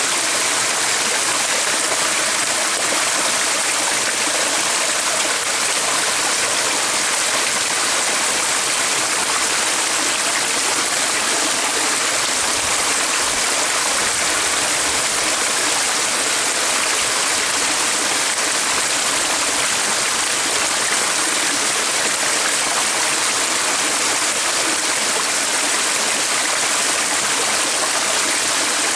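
Steady rushing of a flowing stream, with no change in level.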